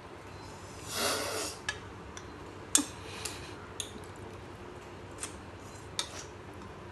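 Tableware clinking during a meal: a short scraping rustle about a second in, then several sharp separate clinks and taps, the loudest just under three seconds in.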